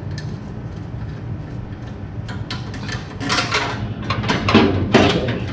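Metal clinks, rattles and scrapes of a steel brake line and its flare-nut fitting being unscrewed and worked loose by hand. The clatter starts a couple of seconds in and gets busier towards the end, over a steady low hum.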